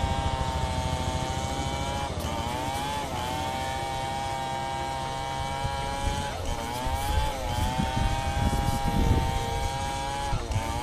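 Chainsaw running at high revs, its pitch sagging briefly about five times as the chain loads up in the cut, then climbing back.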